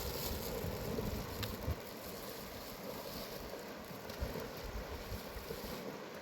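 Steady rush of a mountain river, with wind gusting on the microphone in low rumbles.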